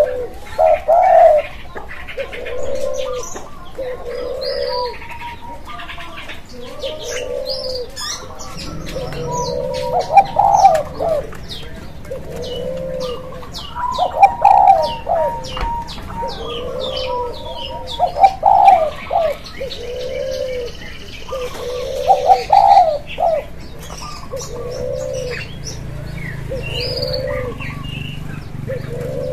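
Birds calling: short, low cooing notes repeated about every second or two, with thinner high chirps in between.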